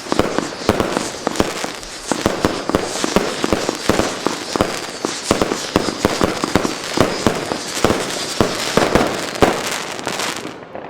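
Funke Screaming Chrysanthemum, a 100-shot 24 mm firework cake, firing rapidly: a dense run of sharp bangs and crackling, several a second, with high screeching tails underneath. It drops away just before the end.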